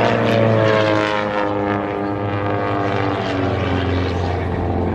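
Propeller-driven airplane flying past, its engine drone falling steadily in pitch as it goes by.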